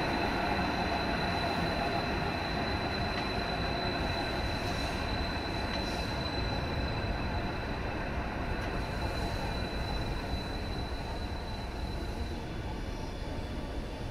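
Stadler-built Class 555 electric Metro train running past, a steady rumble of wheels on rail with a thin high whine that fades out near the end.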